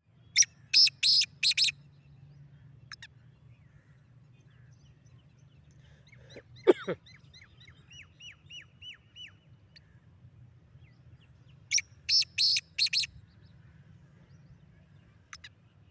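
Young black francolin calling: two runs of about five loud, harsh notes, about ten seconds apart. Between them come a short lower call falling in pitch and a quick row of about eight down-slurred chirps.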